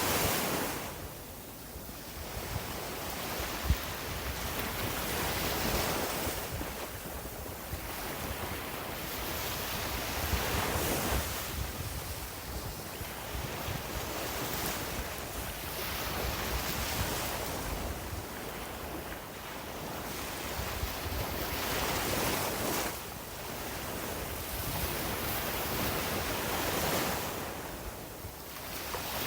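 Sea waves washing onto a beach, the surf swelling and falling back every four to six seconds, with wind rumbling on the microphone. A brief bump about four seconds in.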